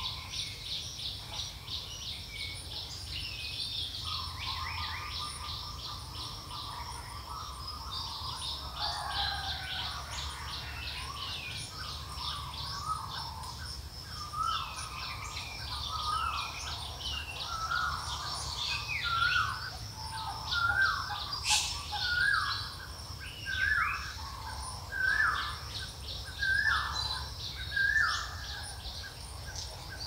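Several birds chirping and singing: a fast, high twitter throughout. From about halfway, a lower call repeats roughly once a second and is the loudest sound, over a faint steady low rumble.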